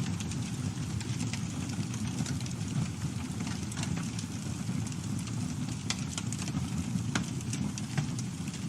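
Campfire burning with a steady low rumble of flame and irregular crackles and pops from the burning wood, a few sharper pops in the second half.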